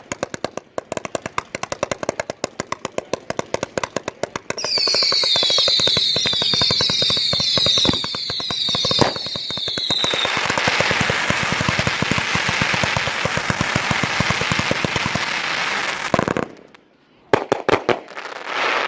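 A 158-shot, 500-gram fan cake firework going off: a rapid string of launch thumps at several shots a second, then many short whistles falling in pitch over the thumps, then a dense hissing, crackling barrage that cuts off suddenly, followed by a few last separate shots near the end.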